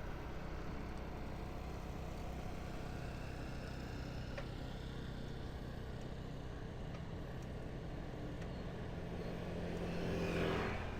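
Street traffic: a steady hum of motor vehicles, with one vehicle passing close and louder about ten seconds in.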